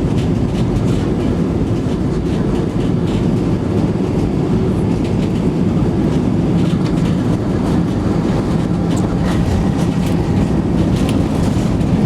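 Steady loud rumble inside the cabin of an Airbus A320-212 rolling on the ground after landing, with scattered small rattles.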